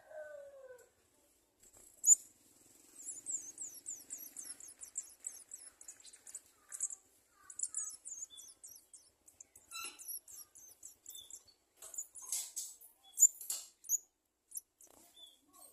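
Sunbird nestlings begging: long runs of rapid, very high-pitched thin chirps. A few sharp ticks stand out, the loudest about two seconds in and near the end.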